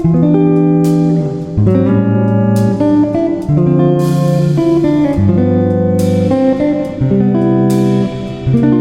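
Guitar music: plucked and strummed chords, changing about once a second.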